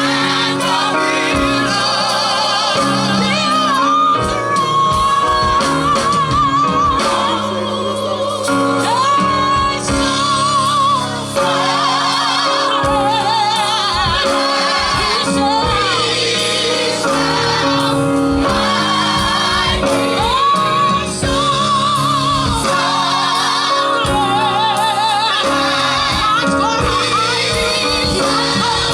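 Gospel group singing live with vibrato-laden voices over band accompaniment of sustained chords and bass.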